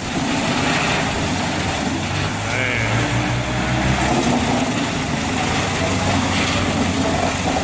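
A heavy machine's engine running steadily under a loud, wide rushing noise, starting abruptly.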